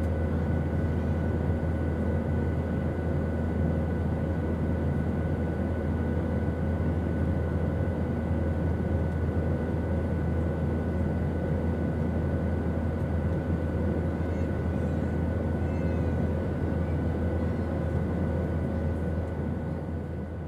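Steady drone of an airplane's engines: a deep, even rumble with a few faint steady whining tones over it. It starts to fade out near the end.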